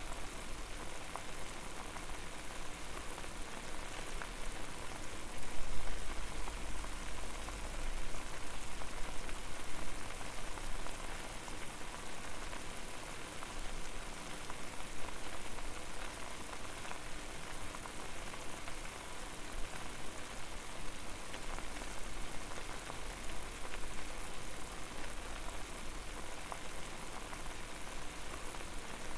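Water boiling over a fire: a dense, steady bubbling crackle of many small pops, with a low rumble that swells a few seconds in and again near the end.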